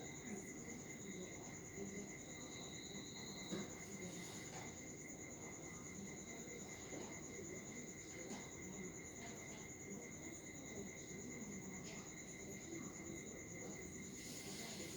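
Steady, high-pitched pulsing trill at two pitches, like an insect chirring, with faint low murmuring and a few soft clicks underneath.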